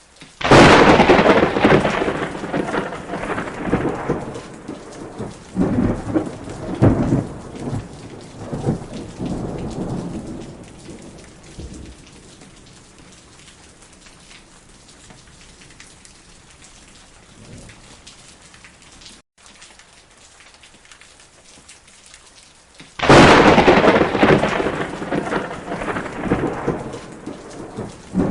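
Heavy rain with two loud thunderclaps, one just after the start and one near the end, each followed by rolling rumbles that fade over several seconds.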